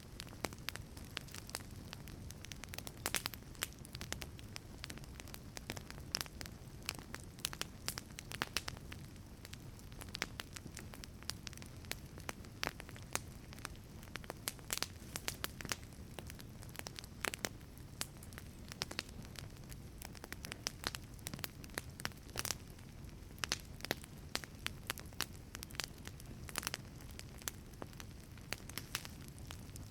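Wood fire burning inside a wood-fired pizza oven, crackling and popping with many irregular sharp snaps over a soft low roar of the flames.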